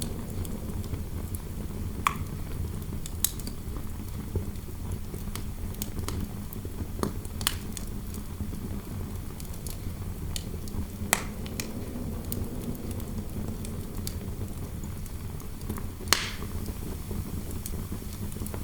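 Fireplace fire crackling, with sharp pops every few seconds, over a steady low wind noise.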